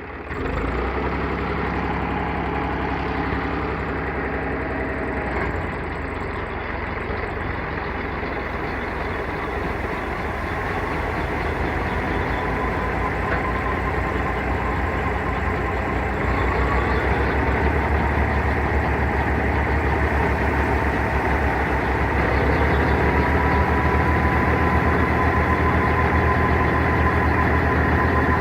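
Tractor engine driving a wheat thresher, running as a steady mechanical drone with a thin whine that rises slightly in pitch. The whole sound grows gradually louder over the stretch.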